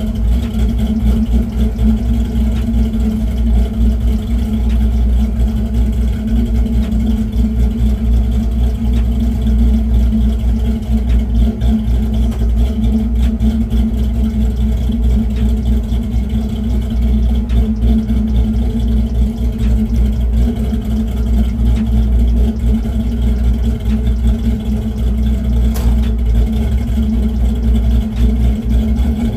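Box Chevy's engine idling steadily with a deep, even rumble.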